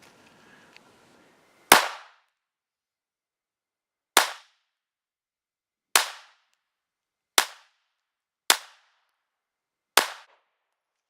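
Six shots from a Glock 43 9mm subcompact pistol fired with a flush magazine, spaced unevenly about one to two and a half seconds apart. Each shot is a sharp crack with a brief fading tail.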